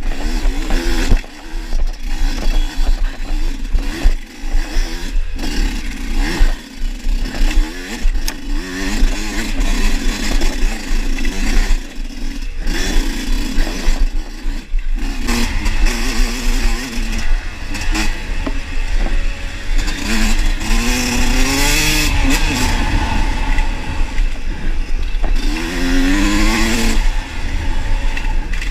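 Trail motorcycle engine running under load, revving up and down, with the pitch rising sharply twice near the end as the throttle is opened. Knocks and rattles from the bike over rough ground come throughout, over a constant low rumble.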